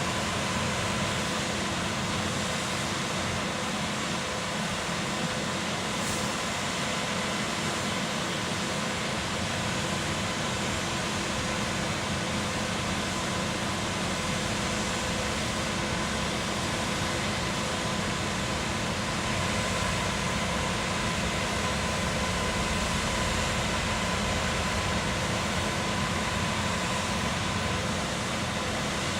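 Concrete pump machinery running steadily, a constant mechanical drone with a faint steady whine over it.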